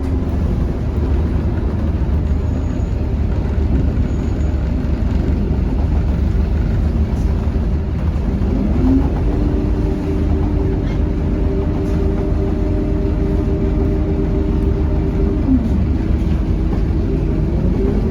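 Scania K230UB bus's diesel engine and ZF automatic gearbox under way: the engine and driveline note climbs about halfway through, holds steady for several seconds, then drops, and begins to climb again near the end.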